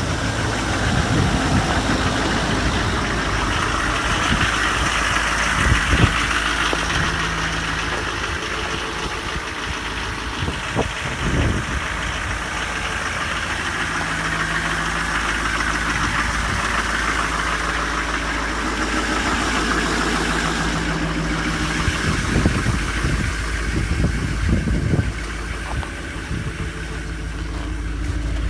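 Duramax LML 6.6-litre V8 turbo-diesel idling steadily just after a cold start, the engine cold after sitting in 5-degree weather without its block heater plugged in. A few short sharp knocks sound now and then over the steady running.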